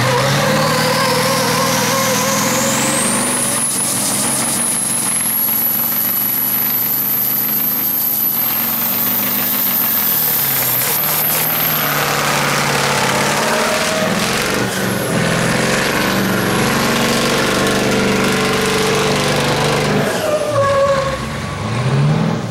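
Truck engine held at high revs during a burnout, with a high whine that climbs steadily over the first ten seconds or so. The engine eases off near the end, then revs up again briefly.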